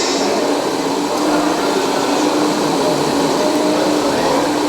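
Steady mechanical whirring of radio-controlled scale construction models running, with a hum that drops out and comes back every second or so.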